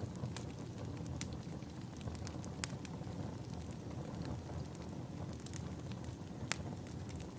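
Log fire burning in a fireplace: a steady low rumble of flames with irregular sharp crackles and pops, a few louder snaps standing out.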